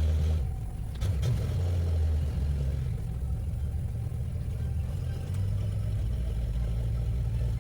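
Old Dodge Lancer's engine running as the car drives, with a steady low rumble that shifts in level a few times, heard from inside the cabin.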